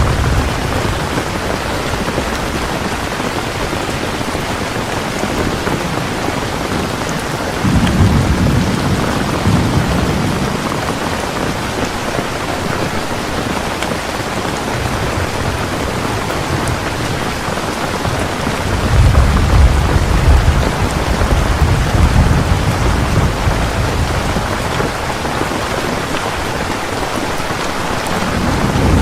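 Heavy rain falling steadily, with two rolls of low thunder rumbling for a few seconds each, about eight seconds in and again about nineteen seconds in, and another building near the end.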